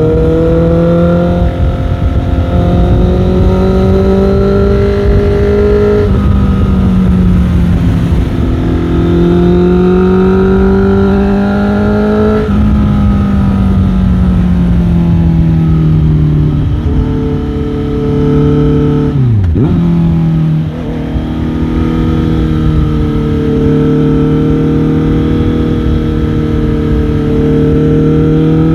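Motorcycle engine under way, climbing in pitch as it pulls through a gear and dropping back at gear changes about 6 and 12 seconds in. About two-thirds of the way through, the revs fall sharply and then hold steady.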